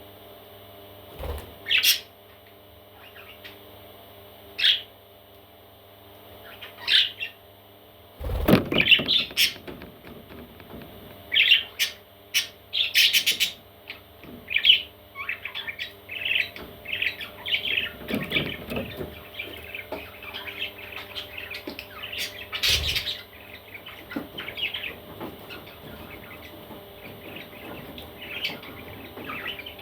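Parrot chicks calling in short chirps and squawks, a few scattered calls at first, then a busier run of calls through the middle. There are a few low thumps, the loudest about eight seconds in.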